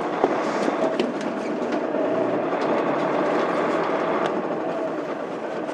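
Interior running sound of a Mitsubishi Fuso Aerostar city bus with a 6M70 diesel engine, moving along the road. It is a steady noise with occasional sharp clicks and rattles, easing off slightly near the end.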